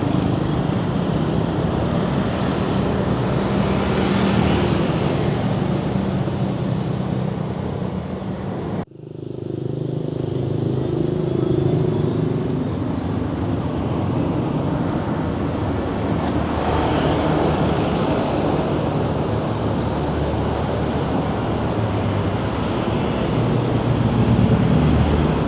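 Street traffic: vehicle engines running and passing in a steady wash of road noise. About nine seconds in, the sound drops out for an instant at a cut, then carries on.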